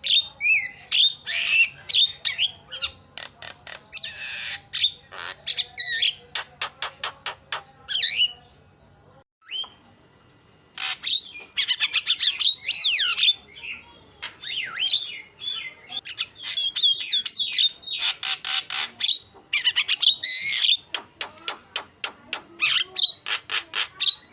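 Javan myna (jalak kebo) chattering: a dense string of harsh squawks, gliding whistles and fast rattling runs of clicks. It pauses briefly about nine seconds in, then starts again just as busily.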